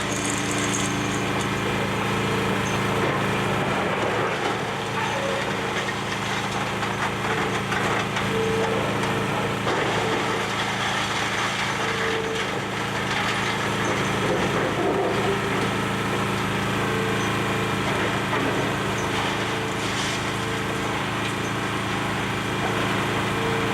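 Demolition excavator's diesel engine running steadily under load, with cracking and crunching of building debris as it tears into the structure.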